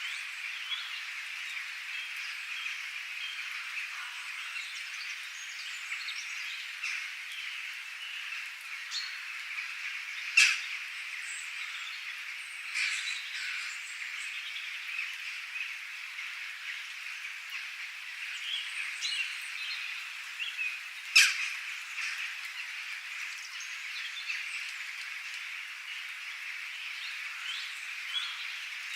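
A steady chorus of frogs with scattered bird chirps over it. Two short, loud, sharp sounds stand out, about ten seconds apart.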